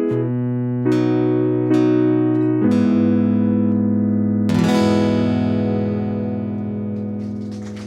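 Guitar playing the closing chords of a song: a few strummed chords about a second apart, then a final chord struck about four and a half seconds in and left to ring out and fade.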